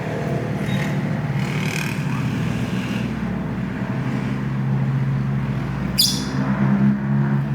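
A steady low motor hum, like a vehicle engine running, with a few faint high chirps about one and a half to two seconds in and a sharp click about six seconds in.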